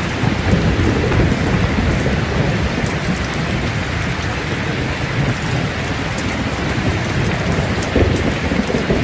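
Steady rain falling, with a low rolling rumble of thunder underneath.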